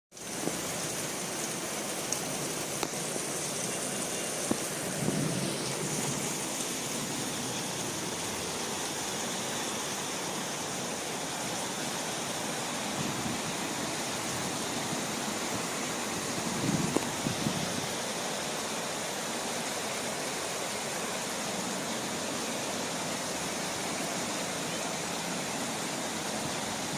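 Steady rain falling, an even hiss throughout, with a few brief low rumbles or swells around 5, 13 and 17 seconds in.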